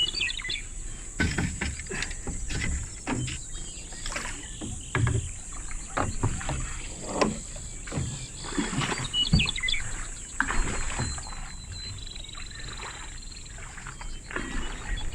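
Irregular splashing and knocking of water, as from a small boat being paddled, over a steady high insect drone; a bird chirps near the start and again about two-thirds of the way in.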